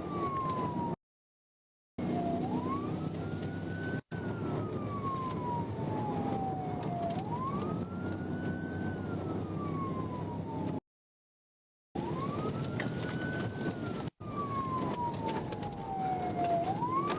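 Police car siren on the wail setting, its pitch slowly rising and falling every few seconds, over steady engine and road noise from the moving car. The sound cuts out to silence twice, for about a second each time.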